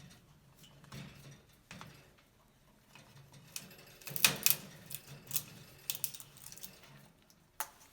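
Cape parrot's beak biting and cracking at a wooden foraging box: scattered sharp clicks and snaps, sparse at first, with the loudest cluster about halfway through.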